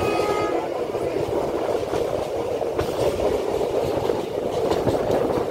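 Passenger train running at speed, heard from a carriage window: a steady rumble and rush of wheels on rail, with a faint brief tone near the start.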